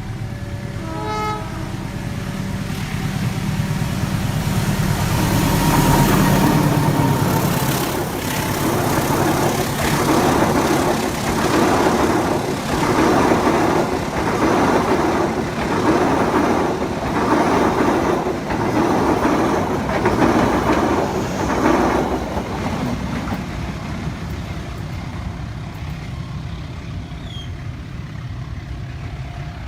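Long diesel-hauled passenger train passing at speed: the locomotive's engine drone builds and passes, then the carriages' wheels clatter over the rail joints in a regular beat about once a second, fading as the train moves away.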